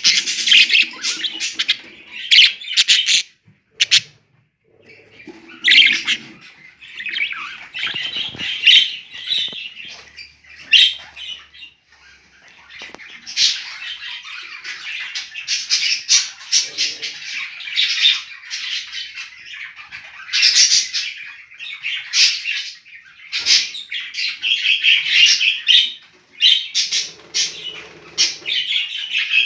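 Birds calling: rapid, harsh squawks and chirps in dense clusters, with a few brief lulls.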